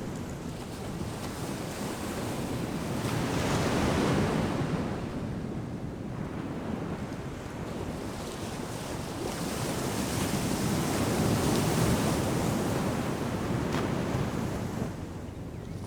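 Ocean surf breaking and washing up the beach: a steady rush that swells twice, about four seconds in and again around eleven to twelve seconds, then eases back.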